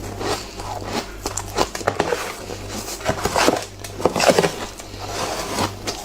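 Frosty shaved ice being bitten and chewed, an irregular run of crisp crunches and crackles, loudest about halfway through.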